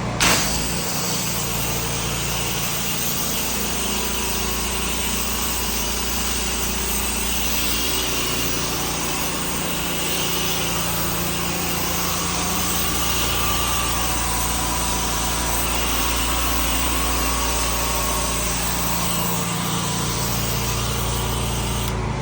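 Gas-engine pressure washer running steadily, with the hiss of the water spray on a deck over the engine's steady drone.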